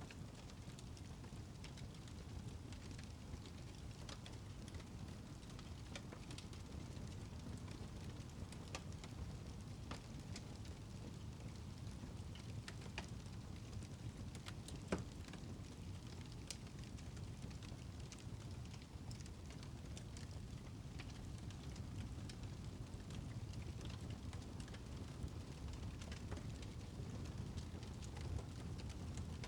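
Wood fire in a fireplace crackling: scattered small pops and ticks over a low steady rumble, with one sharper pop about halfway through.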